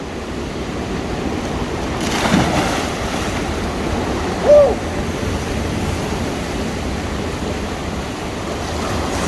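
Sea waves surging and crashing steadily, with a bigger surge about two seconds in. A brief high call that rises and falls cuts through about halfway.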